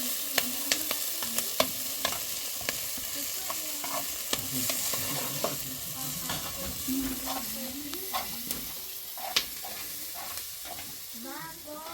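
Food frying in hot oil: a steady sizzle scattered with sharp crackles and pops.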